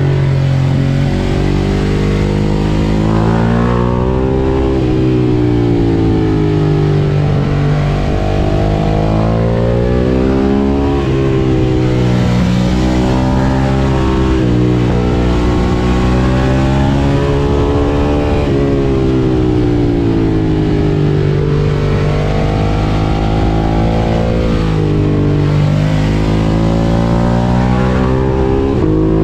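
Ducati Monster 1200 S's 1198 cc L-twin engine through an Akrapovič exhaust, accelerating and easing off again and again. Its pitch climbs through the revs and drops back with each shift or roll-off, loud throughout.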